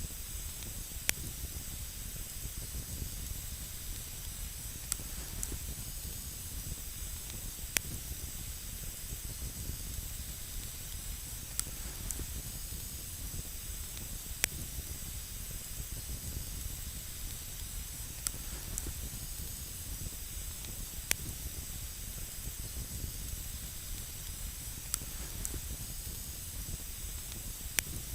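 Campfire burning with a steady hiss and a sharp crackling pop every few seconds.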